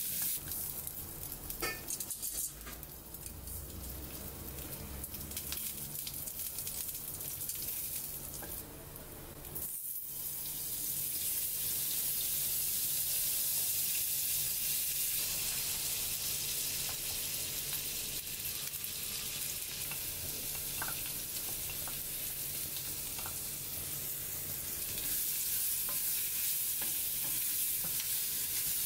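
Sausages and bacon sizzling in a nonstick frying pan as they are stirred, with a few taps of the utensil against the pan about two seconds in. The sound drops briefly about ten seconds in, then the sizzle returns steadier and a little louder as the sausages fry in melting butter.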